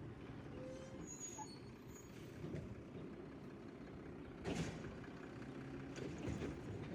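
Garbage truck's diesel engine running steadily at a low rumble, with one short sharp hiss about four and a half seconds in.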